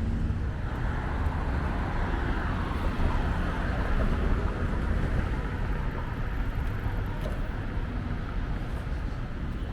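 City street traffic: a steady low rumble of passing cars, with one vehicle swelling louder and fading away over the first few seconds.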